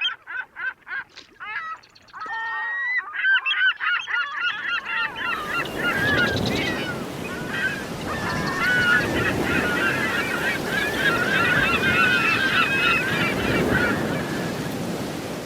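Honking bird calls, first a single bird in quick repeated series, then from about five seconds in a whole flock calling over the steady rush of surf.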